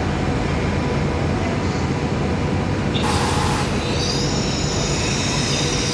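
ETR 600 train rumbling along slowly on its rails; a short hiss about three seconds in, then high-pitched wheel squeal.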